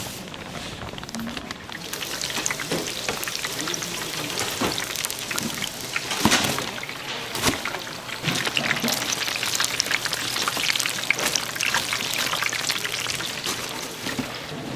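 Food frying in hot oil, a dense steady crackle and sizzle that swells about two seconds in, with a few sharp knocks over it.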